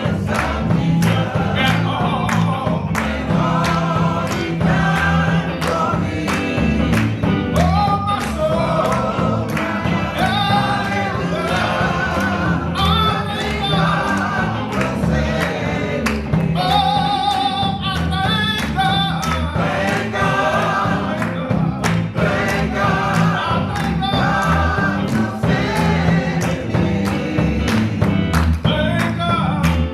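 Church choir singing a gospel song over instrumental accompaniment with a steady beat.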